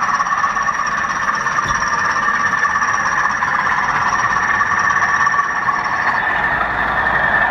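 Model train running on a layout, with a steady high-pitched whine; the highest part of the whine stops about six seconds in.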